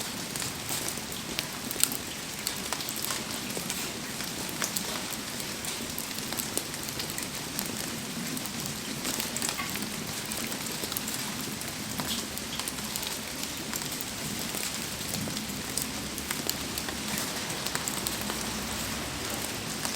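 Heavy rain falling steadily, with scattered sharp ticks and pops over it from raindrops and the crackle of a wood campfire.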